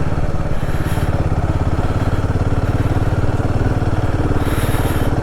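Royal Enfield Himalayan 450's single-cylinder engine running steadily while the motorcycle is ridden, with a brief hiss about four and a half seconds in.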